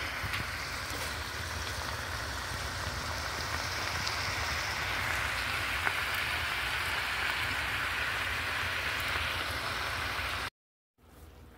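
Cabbage and kale sizzling steadily as they cook down in a skillet, cutting off suddenly near the end.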